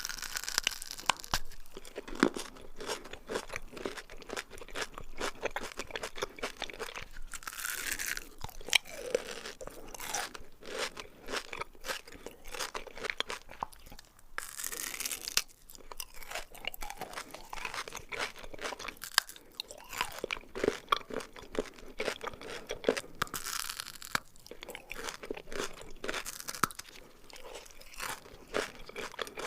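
Close-miked crunching and chewing of Dubai chocolate, its crisp filling crackling densely between the teeth.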